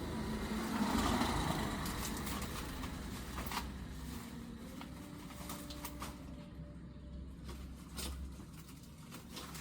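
A vehicle passing by, loudest about a second in and then slowly fading away.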